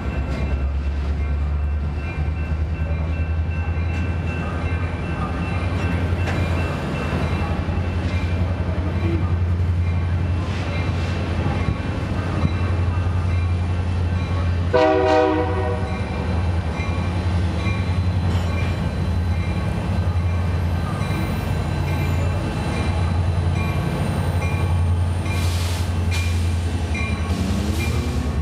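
Intermodal double-stack freight cars rolling past with a steady low rumble and a faint ringing from the wheels. A short train horn blast sounds about halfway through.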